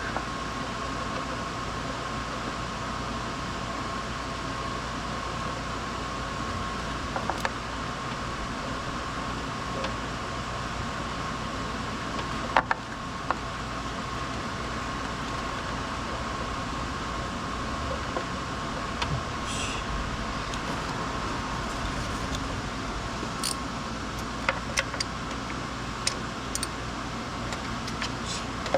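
Steady mechanical hum with a thin, even whine running through it, broken by a few light clicks and taps.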